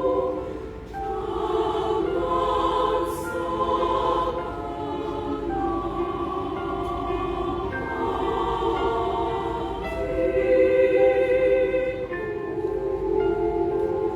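Women's choir singing in sustained, held chords that shift every second or two, with a brief dip in loudness about a second in.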